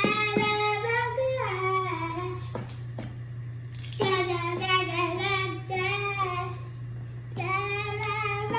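A child singing: three short sung phrases of held notes that step up and down, over a steady low hum.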